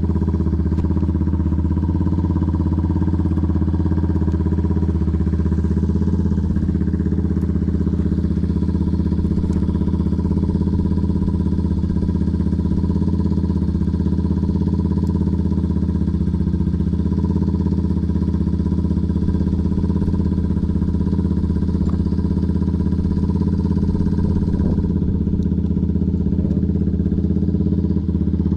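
Dirt bike engine idling steadily, its pitch holding level throughout with no revving.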